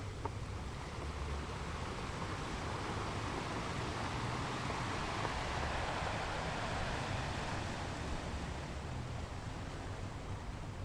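Ocean surf on a beach: a steady hiss of waves that swells to a peak about halfway through and eases off again, over a low rumble.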